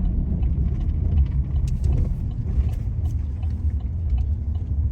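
Steady low rumble of a vehicle being driven, engine and road noise heard from inside the cabin.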